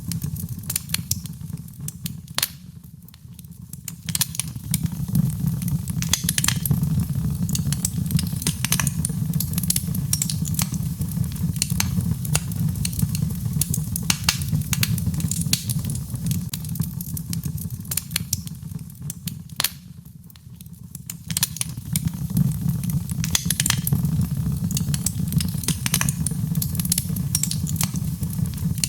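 Birchwood fire burning in a fireplace: a steady low rumble of flames with frequent sharp crackles and pops from the burning wood. The rumble drops away briefly twice, about three seconds in and again about twenty seconds in.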